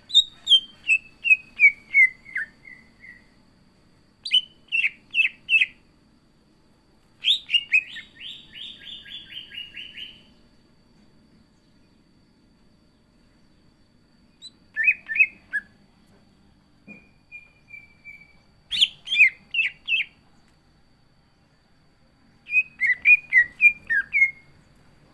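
Cucak ijo (green leafbird) singing in separate loud phrases with pauses between: a falling run of whistled notes, short clipped note groups, and a fast trill about seven seconds in. Its song is full of notes mimicked from other birds.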